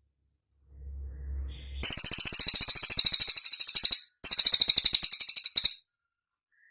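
Cililin bird song: two loud, rapid, high-pitched trills, the first about two seconds long, the second about a second and a half, with a short break between. A faint low rumble comes just before the first trill.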